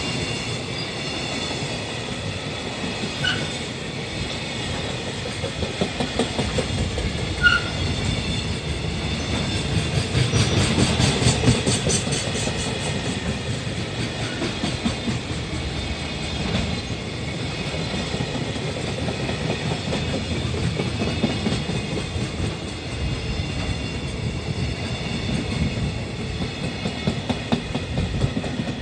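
Freight train's container wagons rolling past close by. Wheels clatter rhythmically over the rail joints over a continuous rumble.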